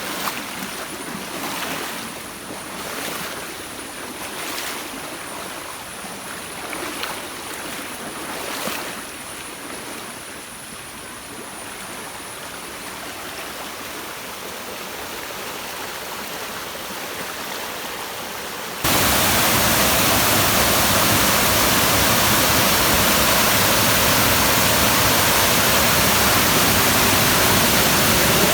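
Running water of a small rain-swollen stream, with a few brief swells in the first several seconds. About two-thirds through, it cuts suddenly to a louder, steady rush of falling water.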